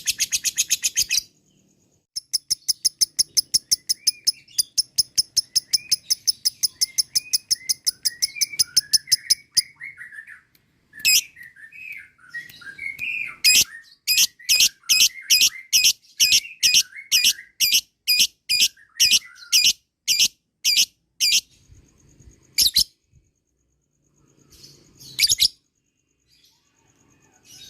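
Lovebird chattering its long 'ngekek' song: a fast run of shrill, evenly repeated calls with softer twitters beneath. About halfway through it slows to sharp single calls about two a second, thinning to a few isolated calls near the end.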